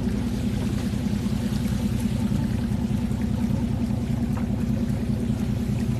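Steel fishing boat's engine running steadily as a low drone, with water rushing over it.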